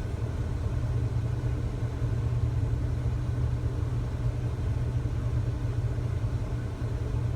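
Truck diesel engine idling: a steady low rumble.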